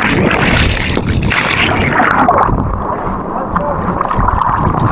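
Water splashing and churning from a jump into a deep waterfall pool.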